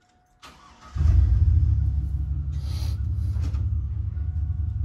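A machine starts up about a second in and runs on with a steady, loud low rumble.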